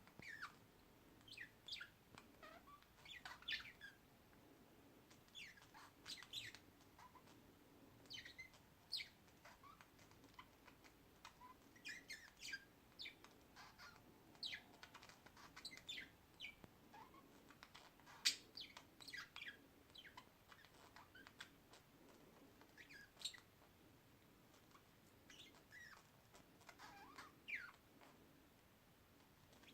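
Birds chirping: many short, high chirps at irregular intervals, the loudest about eighteen seconds in.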